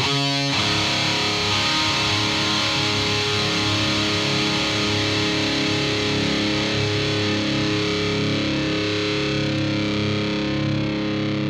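Distorted electric guitar: a chord struck at the start and left to ring, fading slowly.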